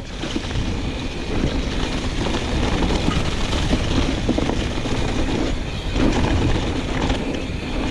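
Mountain bike rolling fast down a rooty trail: tyres rumbling and the bike rattling steadily over the bumps.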